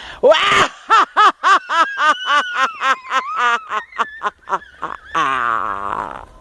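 A witch-like cackling laugh: a quick run of short 'ha' bursts, about four a second, followed near the end by one long, high held cry.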